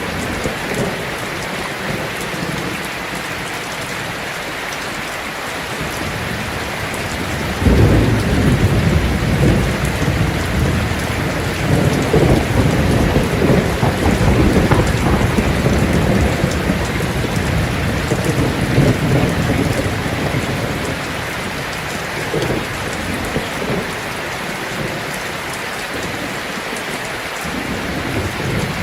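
Heavy rain drumming steadily on a tin roof. About eight seconds in, a long roll of thunder breaks in and rumbles for over ten seconds before fading away under the rain.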